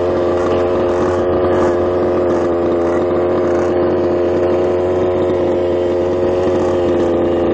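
Small two-stroke gas engine of a 1/5-scale RC truck running at steady high revs, holding one pitch, then cutting off abruptly at the end.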